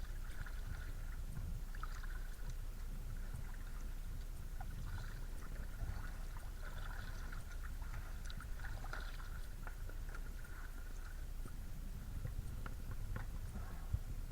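Kayak paddle strokes with water splashing and trickling off the blade, muffled, over a steady low rumble and scattered small knocks.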